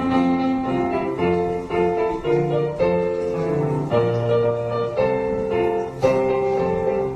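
Instrumental introduction to a children's song played on a keyboard: a run of held chords changing about every half second, with no singing yet.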